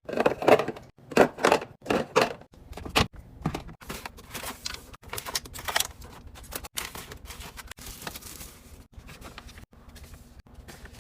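Quick clicks, clinks and knocks of hard containers and packages being handled and set down while a fridge is restocked. They are loudest in the first few seconds and grow fainter and sparser toward the end.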